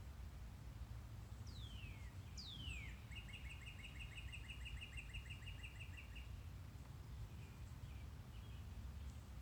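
A songbird calling: two quick down-slurred whistles, then a rapid, even trill of about five notes a second lasting some three seconds, followed by a few faint chirps. A low, steady outdoor rumble runs underneath.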